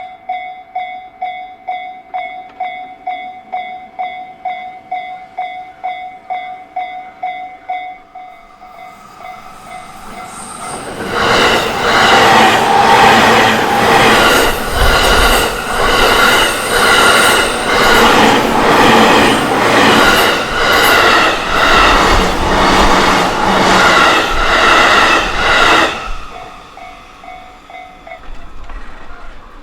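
Level-crossing warning bell ringing its repeated electronic ding about twice a second. It gives way about eight seconds in to an approaching electric train. The train passes loudly for about fifteen seconds with a regular clatter of wheels over rail joints, and the bell is heard faintly again after it has gone.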